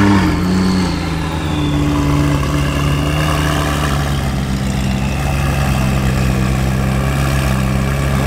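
McLaren sports car's twin-turbo V8 idling steadily, its pitch falling back from a rev blip just as the sound begins.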